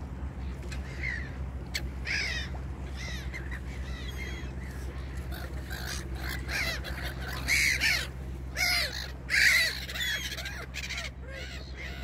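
Birds calling over and over in short arched calls, with three loud, harsh calls in quick succession about two-thirds of the way through, over a steady low hum.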